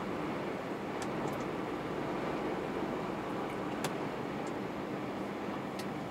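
Steady running noise of a moving truck heard from inside the cab: engine hum and road noise, with a few faint clicks.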